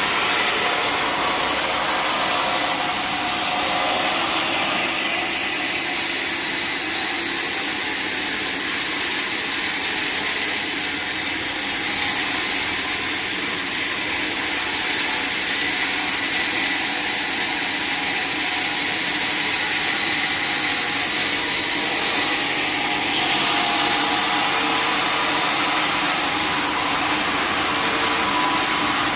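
A sawmill saw running steadily through a mahogany log, with a continuous sawing noise over the mill's engine.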